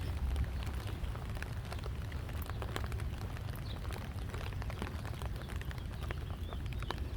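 Rain pattering, with scattered drops ticking close by over a steady low rumble.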